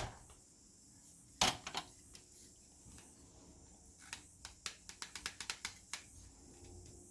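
Projector parts being handled during disassembly: a sharp knock about a second and a half in, then a quick run of light clicks and taps.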